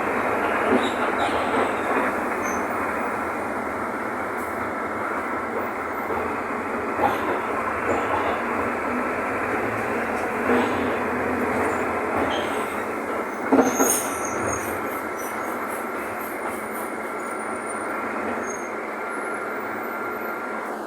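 Mercedes-Benz OF-1519 bus on the move: its diesel engine running under a steady drone, with a faint steady whine and occasional knocks and rattles, the loudest about two-thirds of the way in.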